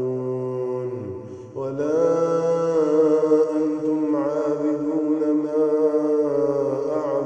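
A man reciting the Quran in a slow, melodic chant, holding long, drawn-out notes. The pitch falls into a short break about a second in, then the voice rises and sustains again.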